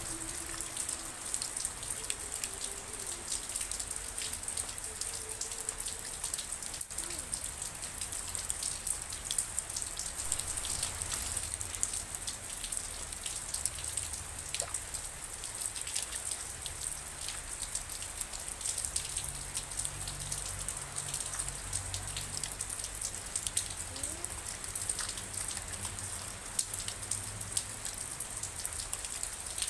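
Steady rain falling, an even hiss dotted with many close hits of single drops.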